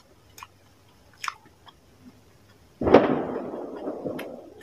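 Close-up eating sounds: small wet mouth clicks, then a little under three seconds in a sudden loud burst of chewing that fades over the next couple of seconds.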